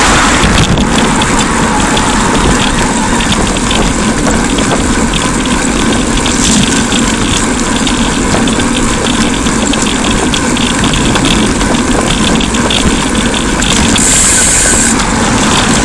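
Steady loud road noise on a bicycle ride beside motor traffic: wind and engine rumble. A brief high hiss comes near the end.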